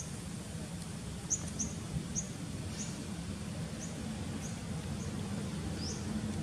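Short, very high bird-like chirps, about nine of them spaced irregularly half a second to a second apart, over a steady low outdoor rumble.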